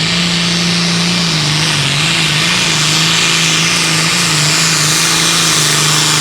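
Limited Pro Stock pulling tractor's turbocharged diesel engine running hard at high revs under load. It holds one loud, steady note that sags slightly a little over a second in, over a strong hiss.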